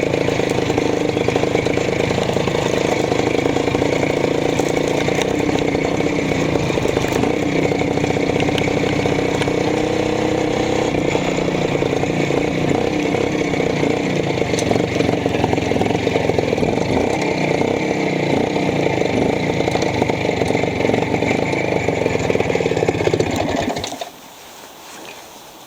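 Minsk motorcycle's single-cylinder two-stroke engine running steadily, then shut off near the end, with the sound cutting out suddenly.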